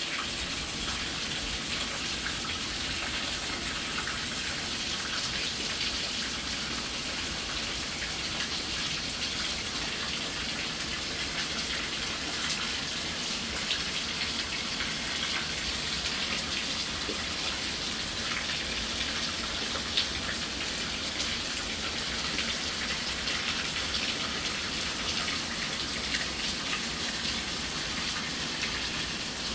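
Steady rain pouring down, an even hiss with scattered drips and drop impacts, one sharper tap about twenty seconds in.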